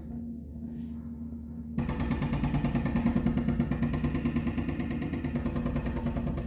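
A motor running with a steady hum; a little under two seconds in, a rapid, even mechanical hammering starts suddenly and keeps going.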